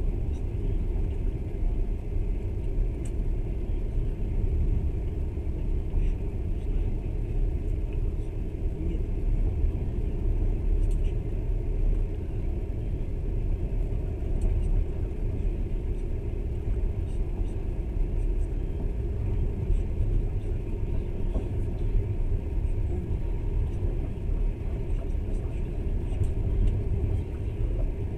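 Passenger train running along the line: a steady low rumble of wheels and carriage, with faint scattered ticks.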